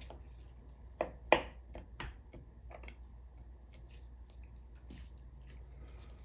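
Cutting a fat pocket off a raw chicken thigh: a few short, sharp clicks and snips of the blade against the meat and cutting board, the loudest about a second and a half in, then softer handling noises.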